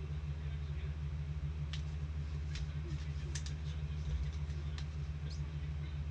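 Steady low-pitched hum in the room, with about half a dozen short light clicks and scrapes from trading cards being handled and flicked through.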